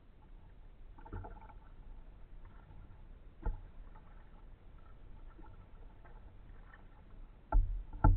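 Kayak being paddled, with faint water sounds and sharp knocks of the paddle against the kayak: one about three and a half seconds in and two louder ones close together near the end.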